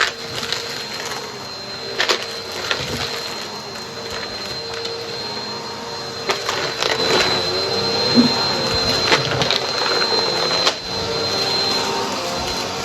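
Vacuum cleaner running steadily with a high-pitched motor whine, with scattered clicks and crackles as it sucks up crunchy debris.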